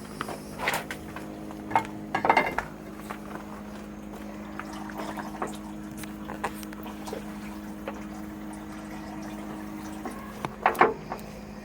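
A steady low hum from a running machine, with scattered metal clinks and knocks from hand work on a hydraulic hose fitting. The loudest knocks come about two seconds in and again near the end.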